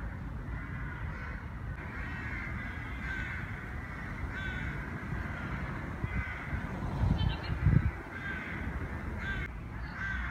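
Birds calling in the open air, a short call repeated about once a second, over a steady low rumble.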